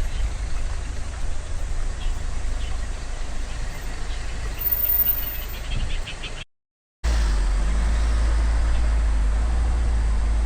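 Steady low rumble of a motor vehicle on the move, over a hiss. It cuts out for about half a second a little past six seconds in, then comes back heavier in the low end.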